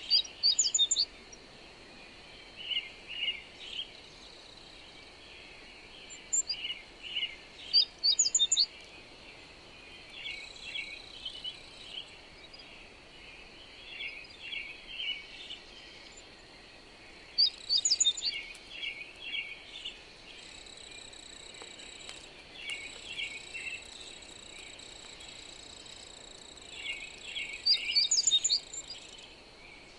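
Birds singing: quick chirping goes on throughout, and four times, about ten seconds apart, a loud bright phrase of high notes rings out. Under it run a steady high insect drone and a soft even hiss.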